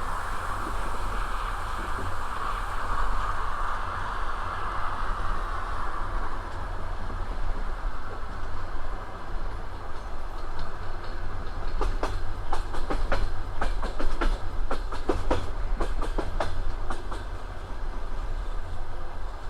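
Passenger train running on the rails with a steady low rumble and a hiss that fades out about six seconds in. In the second half comes a run of sharp clickety-clack as the wheels strike rail joints.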